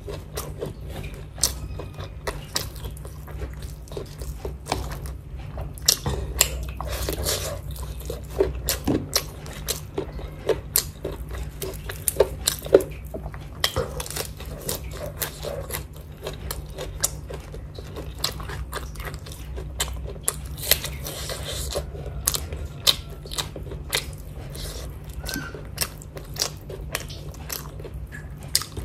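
A person chewing and eating biryani rice with her hand: many short, irregular mouth clicks and smacks, over a steady low hum.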